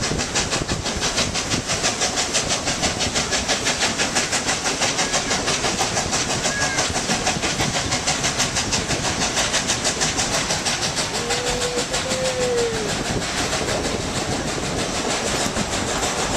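Baldwin 2-8-2 narrow-gauge steam locomotive pulling the train, heard from a passenger car as a fast, even chuffing of about four to five beats a second, over the rumble of the cars.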